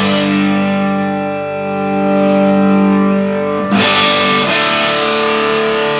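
Electric guitar chords played through a dual Bluesbreaker-style overdrive pedal, a King of Tone / Morning Glory type, with its diode clipping switched on. A chord rings on for about three and a half seconds, then two fresh strums follow in quick succession.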